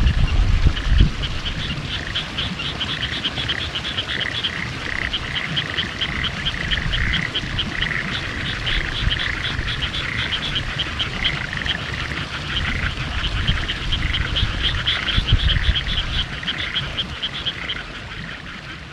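A frog chorus: many frogs calling at once in rapid pulsed trills that overlap without a break. Low thumps on the microphone about a second in.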